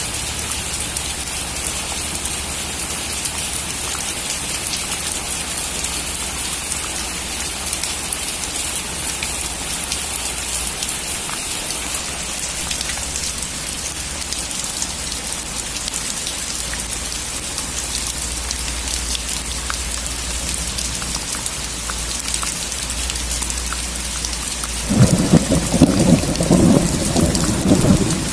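Steady heavy rain falling, with a rumble of thunder breaking in suddenly near the end and rolling for about three seconds.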